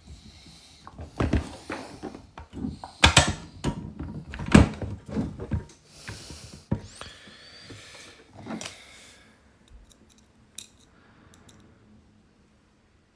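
Hard plastic clicks, knocks and rattles of the MFD unit and dash trim being handled and pressed into place, loudest about three and four and a half seconds in, then tapering off to a few light ticks.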